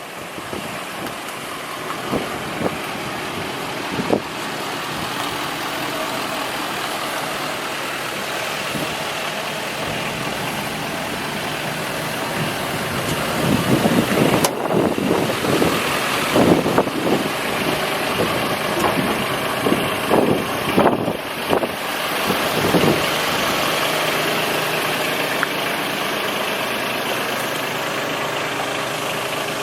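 Ford F-450 truck engine idling steadily, with a louder, uneven spell of about ten seconds near the middle.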